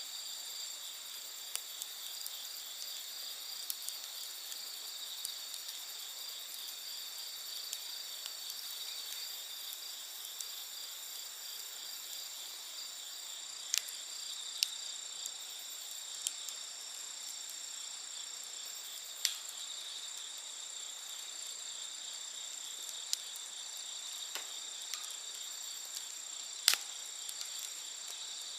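Campfire wood crackling with scattered sharp pops, a few louder ones standing out, over a steady chorus of crickets trilling at several high pitches.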